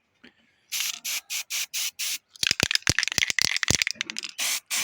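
Aerosol spray-paint can being shaken, the mixing ball rattling in short hissy strokes about three a second, with a denser clatter of clicks midway. The can is nearly empty.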